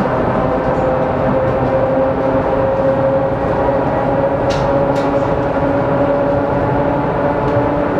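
ER2K electric train running, heard from inside the passenger car: a steady rumble with a motor whine that slowly rises in pitch as the train gathers speed, and a couple of short clicks about halfway through.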